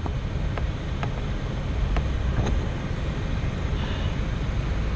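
A few faint, irregular clicks from a faulty HVAC air door actuator behind the passenger-side dash of a 2013 Chrysler 200, over the car's steady low hum.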